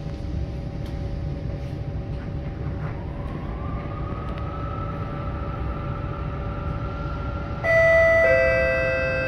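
C151 train pulling away: a steady low rumble, and from about three seconds in a motor whine rising in pitch and then levelling off. Near the end, a two-note chime over the train's speakers, high then low, which comes before the next-station announcement.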